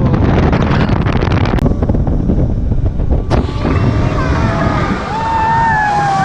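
Jet boat running at speed, its engine rumble mixed with heavy wind noise on the microphone that eases about two seconds in. Wavering high tones that bend up and down come in near the end.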